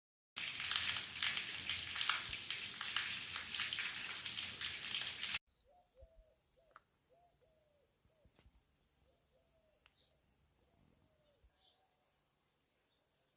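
Loud, steady noise of a heavy rain downpour for about five seconds, cut off suddenly. Faint, repeated short bird calls follow in a near-quiet background.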